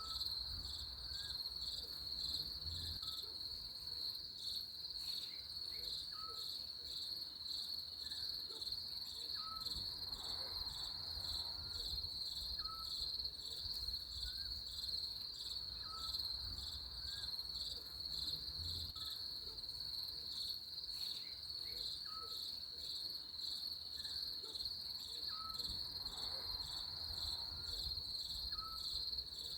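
Crickets trilling in a steady, pulsing chorus, with faint short chirps repeating every second or so beneath it.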